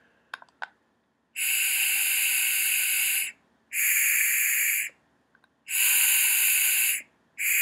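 Breath blown in bursts through a foaming hand-soap pump mechanism, its spring removed, with a clarinet end piece held on the outlet, making a hiss of white noise. There are three blows of one to two seconds each with short pauses, and a fourth starts at the very end. A few light handling clicks come just before the first blow.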